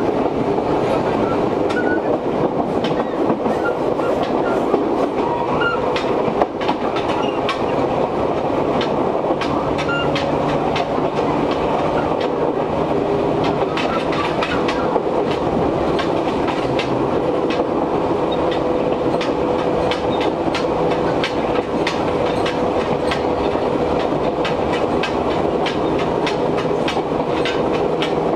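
Interior running sound of an Izuhakone Railway 1300 series electric train under way: a steady rumble with a constant tone, many sharp clacks from the wheels and the clattering gangway plates, and strong air conditioning running.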